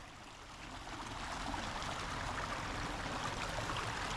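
Water of a small brook running over a little waterfall: a steady rushing trickle that swells up over about the first second, then holds even.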